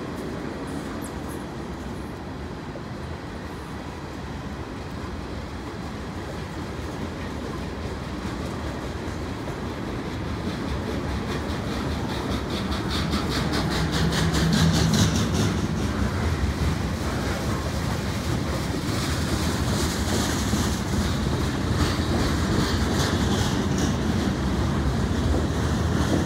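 Freight train cars rolling past: a steady rumble of steel wheels with a rhythmic clickety-clack over the rail joints, growing louder about halfway through as tank cars give way to lumber-loaded flatcars.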